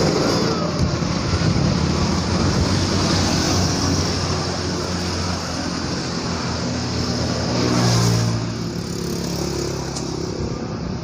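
Road traffic going past: motor vehicles running by, with one passing closest and loudest about eight seconds in.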